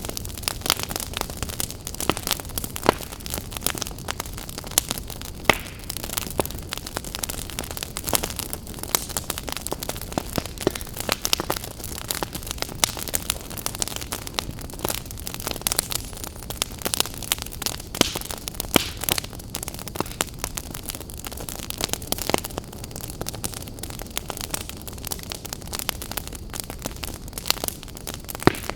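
Wood fire burning in an open fireplace, crackling and popping with irregular sharp snaps over a steady low rumble and hiss.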